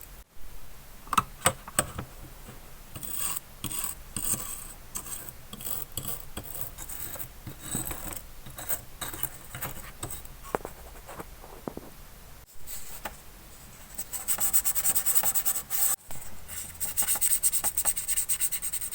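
Hand-worked scraping and rubbing on a small diecast model car body or part, in irregular strokes with occasional clicks. The strokes become faster and more even from about three-quarters of the way through.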